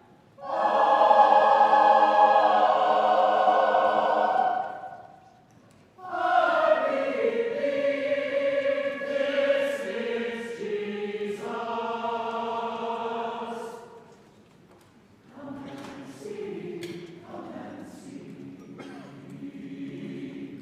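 Church choir singing a communion hymn in long held phrases, with short breaths between them. The last phrase is softer.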